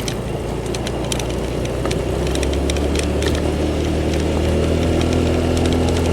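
Motorbike engine running steadily while riding a rough forest track, with scattered sharp crackles from the tyres over gravel and stones. The engine note steadies and grows a little louder about two seconds in.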